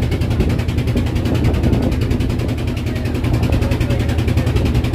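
Motorboat engine running steadily, a low hum with a rapid, even chugging beat.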